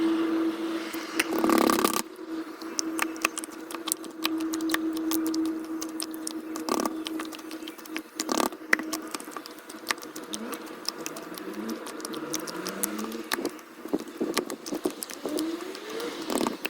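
Rapid clicks, taps and rattles of small objects being handled, sped up about four times, over a steady hum that stops about halfway through.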